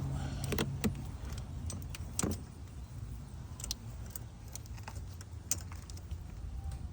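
Scattered light metallic clicks and clinks of hand tools being worked at a car's fuel line fitting, over a low steady hum.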